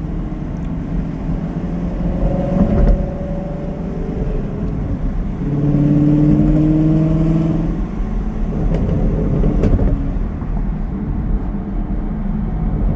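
Chevrolet Camaro SS 1LE's 6.2-litre LT1 V8 running through catless headers, an X-pipe and the factory NPP exhaust, its note rising under revs twice, the second time louder and longer. Sharp exhaust crackles and burbles pop in now and then, most clearly near the end of the first rise and about ten seconds in.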